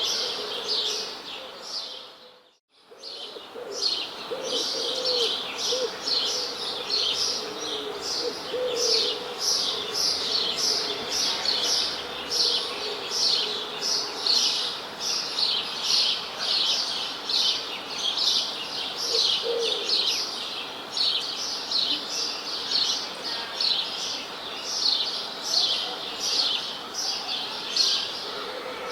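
Birds chirping, a dense run of quick, high chirps repeating about two to three times a second, with a few lower notes underneath. The sound drops out briefly about two and a half seconds in, then resumes.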